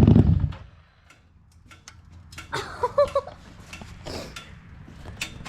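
Harley-Davidson Street 750's V-twin through a Vance & Hines exhaust cuts off about half a second in, then faint scattered clicks and ticks.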